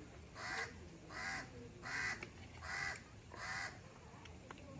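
A bird calling five times in a row, harsh, evenly spaced calls about two-thirds of a second apart.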